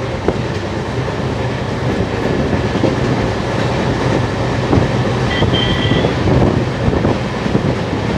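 Indian Railways express train running, heard from inside a passenger coach: a steady rumble with the wheels clacking over rail joints. About five seconds in there is a brief high-pitched squeal.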